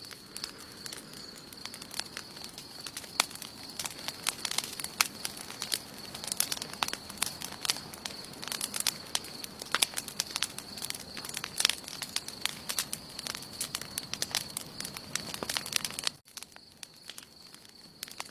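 Wood campfire burning, crackling with many irregular sharp pops over a low hiss. The crackling drops away suddenly near the end, leaving a quieter hiss with a few pops.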